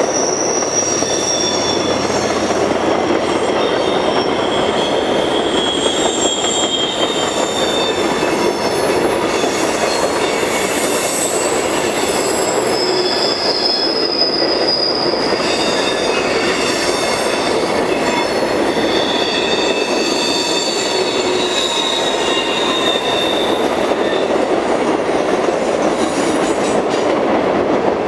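Freight train cars rolling past at low speed, with a steady rumble of wheels on rail. High-pitched wheel squeal comes and goes and wavers in pitch: steel wheel flanges grinding against the rail on the curve.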